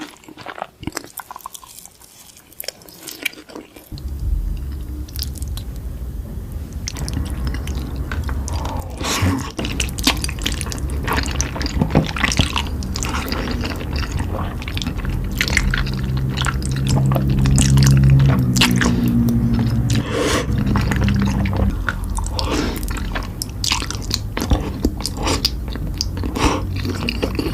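Close-miked chewing and biting while eating noodles with chicken: a steady run of short crunching, clicking mouth sounds. A low steady rumble sits underneath from about four seconds in.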